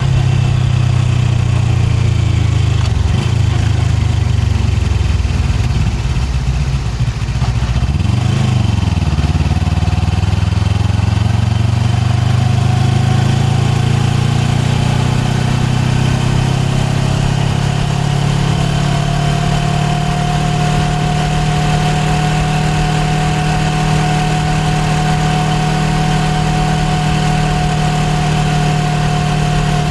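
Suzuki GSX250R's parallel-twin engine running, heard from on board the bike; its pitch rises and falls over the first ten seconds or so, then holds steady, with a steady higher whine joining about two-thirds of the way in.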